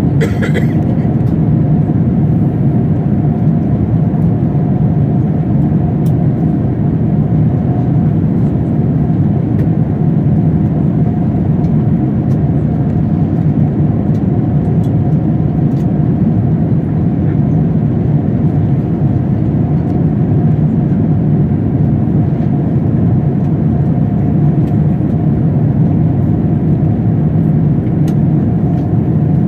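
Steady in-flight cabin noise of an Airbus A350-1000: the low roar of airflow and engines with a faint steady hum, in light turbulence, with a few faint ticks and creaks.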